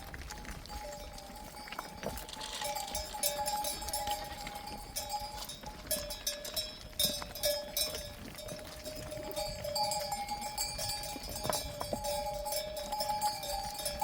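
Bells on a flock of sheep clinking irregularly as the animals graze and move, with hooves knocking on stony ground. A steady two-note tone hums underneath, breaking off now and then.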